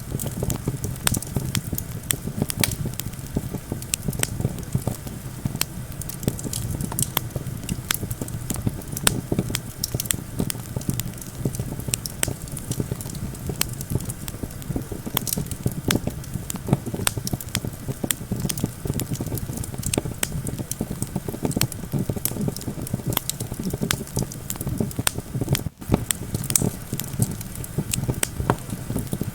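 Campfire burning with dense, irregular crackles and pops throughout, over a steady low rumble of wind.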